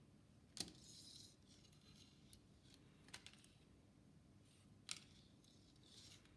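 Three faint, sharp clicks with short scraping or snipping sounds between them, like small handwork at a bench.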